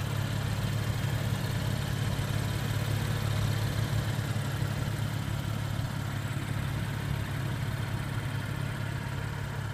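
A car engine idling steadily: a continuous low hum that eases slightly about two-thirds of the way through.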